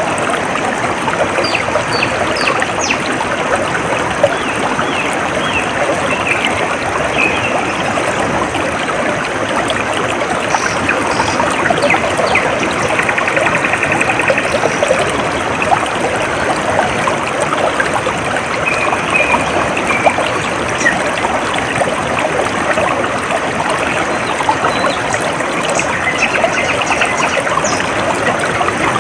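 Steady trickling and splashing of a flowing stream, with scattered short bird chirps over it.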